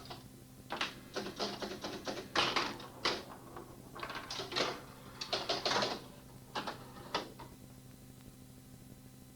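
Irregular mechanical clicking and clattering in quick runs, with a few denser flurries, stopping about seven seconds in, over a steady low hum.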